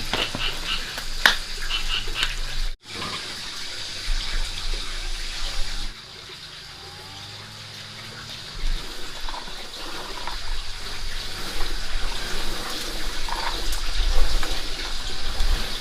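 Running water, a steady splashing flow, broken by a short gap about three seconds in and quieter for a few seconds after the sixth second.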